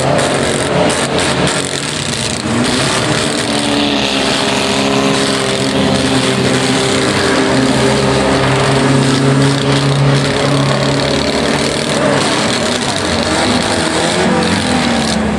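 Banger racing cars' engines running and revving unevenly, the pitch rising and falling.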